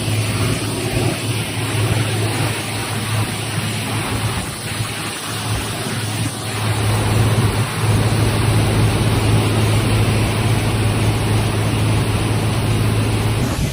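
Fast fishing boat running at speed: a steady low engine drone under rushing water spray and wind noise, growing louder about halfway through.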